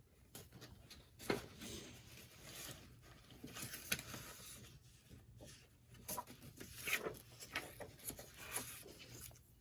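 Craft materials being handled and shuffled on a cluttered work table: rustling and scraping, with a few short knocks.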